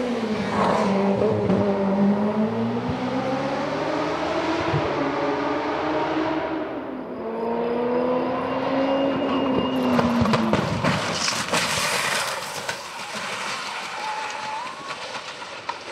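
Race car engine at full throttle, its pitch climbing and dropping through gear changes as the car passes. From about ten seconds in comes a harsher, noisier stretch with sharp cracks.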